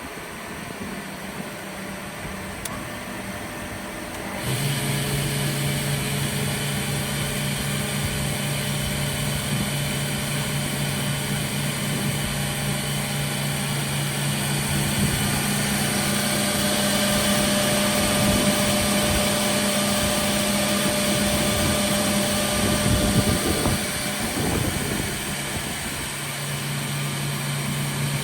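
Altendorf F45 sliding-table panel saw running with a steady motor hum and whine of the spinning blades. About four seconds in the sound steps up louder with an added deeper hum as another motor comes up to speed.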